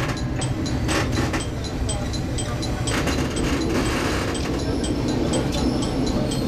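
Vintage diesel railcar running slowly with a steady low rumble of its engine and wheels on the rails, cab-side, with a few brief louder rattles along the way.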